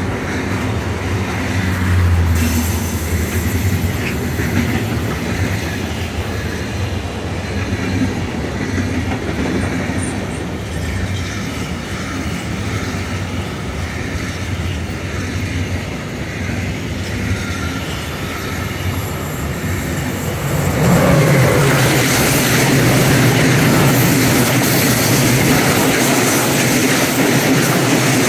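Freight train wagons rolling past close by: a steady rumble and rattle of wheels on rails. The sound grows louder and harsher about twenty seconds in, and tank wagons are rolling by near the end.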